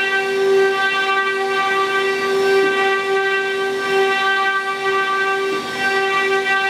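Spindles of a multi-head woodworking CNC router running, a steady high whine that holds one pitch throughout.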